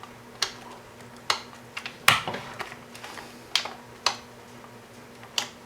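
Big red DPDT toggle switch being flipped back and forth in a test, giving a series of sharp separate clicks, about eight in all, the loudest about two seconds in.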